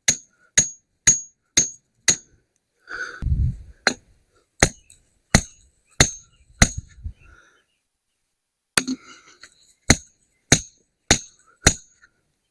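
Mallet driving a steel T-post into the ground: a run of sharp metallic strikes about two a second, each with a brief ring, broken by short pauses. There is a low thud about three seconds in.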